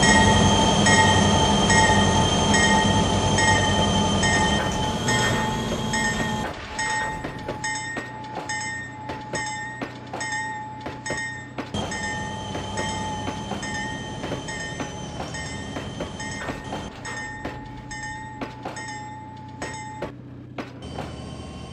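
Passenger train rolling past: a loud rumble for the first six seconds or so, then quieter, with the wheels clicking steadily over the rail joints and high squealing tones from the wheels running on.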